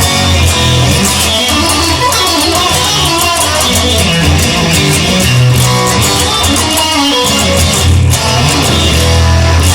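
Band music without singing: an instrumental passage led by guitar over a steady bass line.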